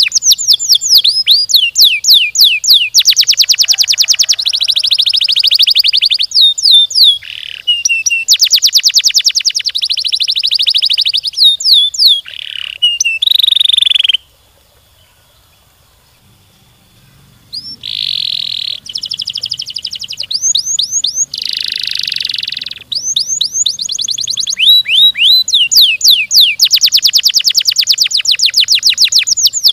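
Domestic canary singing a long rolling song of fast trills: runs of rapid repeated notes and falling whistled sweeps, broken by a pause of about three seconds near the middle.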